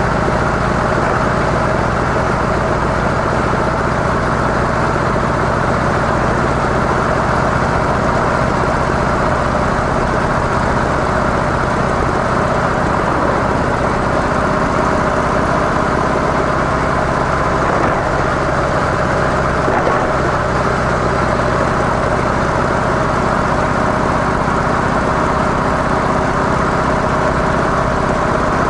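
Harley-Davidson CVO Softail's air-cooled V-twin engine running steadily at an even engine speed through its stock mufflers.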